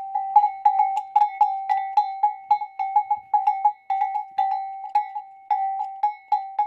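A bell struck quickly and repeatedly, about three to four strikes a second, each ringing on the same single note.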